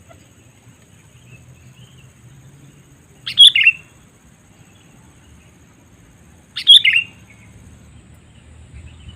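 Sooty-headed bulbul (kutilang) calls: two short, loud calls about three seconds apart, each dropping in pitch. Fainter chirps come in between.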